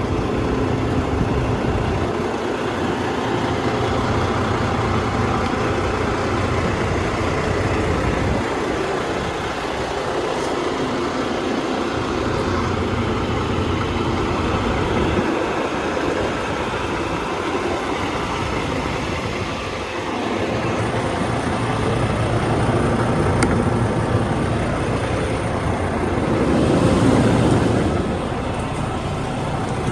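Heavy diesel truck engine idling steadily, with a louder swell of vehicle noise about 26 seconds in.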